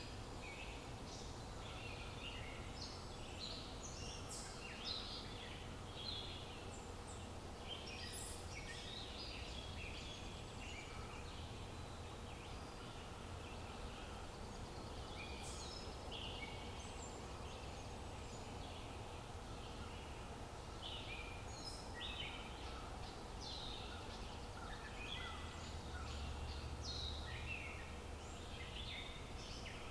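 Several small birds chirping and singing in short, overlapping calls, over a steady low background rumble that grows a little louder near the end.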